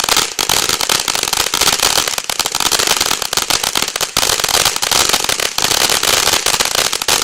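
Monkey Mania 'Neon Fish' consumer firework firing: a loud, dense, unbroken crackle of many rapid pops and sparks.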